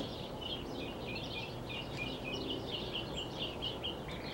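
A bird chirping in a fast run of short, falling notes, about four or five a second, over a steady background hiss.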